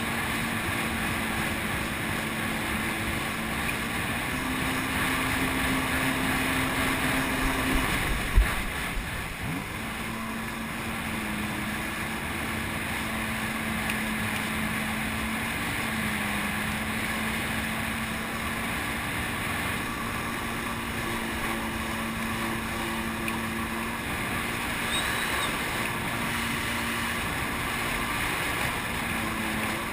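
Jet ski engine running steadily under wind and water spray noise. It speeds up briefly about four seconds in, then eases off with a single loud thump, and runs on at a steady, slightly lower pitch.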